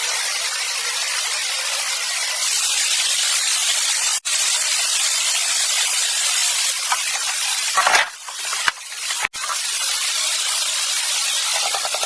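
A steady high hiss with no low sound beneath it, cut by two very brief gaps, about four seconds in and again near nine seconds, with a short uneven louder stretch just before the second gap.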